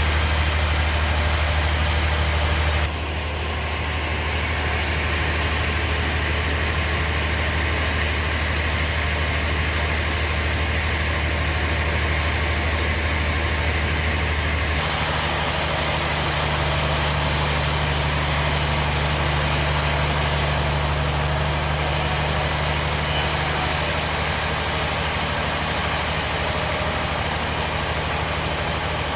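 Bandsaw sawmill machinery running with a steady low hum, its tone shifting about three seconds in and again about halfway through.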